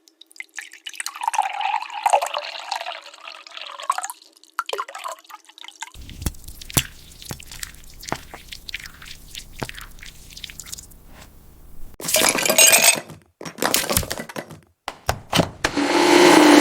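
Generated glass cooking sounds: a stretch of crisp glassy clinking and crackling, then sparse ticks and drips, then three loud rushes of noise like glass grains or liquid being poured. A low steady hum sets in near the end.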